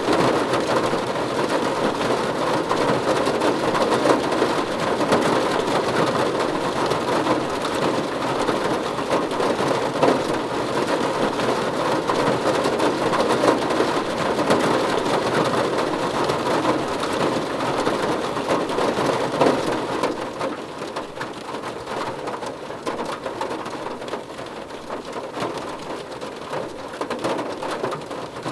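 Heavy rain falling steadily, a dense patter that eases off somewhat about twenty seconds in.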